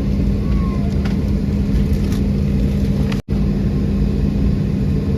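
Steady, loud engine drone with a constant low hum, cutting out for an instant about three seconds in.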